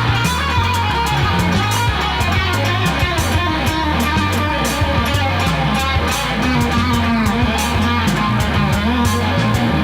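Instrumental rock music: layered electric guitar parts from a Reville Q90 guitar through a Kustom PH1012 amp, over low bass notes and a steady beat of cymbal hits, with no singing.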